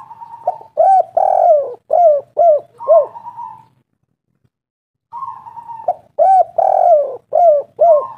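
Spotted dove (tekukur) cooing its song in two phrases, the second starting about five seconds after the first. Each phrase is a drawn-out opening note followed by a run of about five short, deeper coos.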